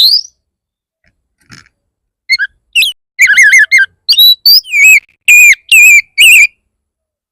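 Oriental magpie-robin (kacer) singing a loud, fierce territorial song of rapid whistled phrases, the kind played to provoke other males into answering. One phrase ends just after the start; from about two seconds in comes a dense run of phrases, which stops about a second before the end.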